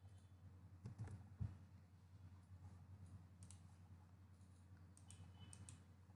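Near silence: room tone with a few faint clicks, and soft knocks about a second in.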